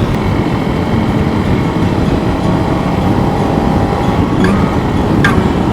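Honda CRF300 Rally's single-cylinder four-stroke engine running at a steady riding pace on a dirt road, under a heavy rumble of wind and tyre noise. Two short, sharp clicks come near the end.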